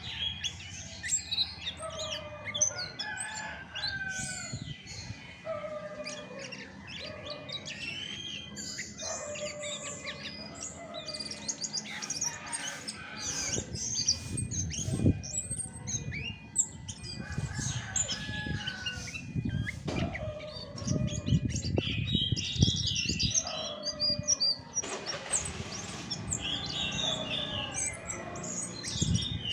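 Chestnut-backed thrush singing, a run of varied whistled phrases mixed with other birds' chirps and calls. From about halfway on, low thumps sound in the background.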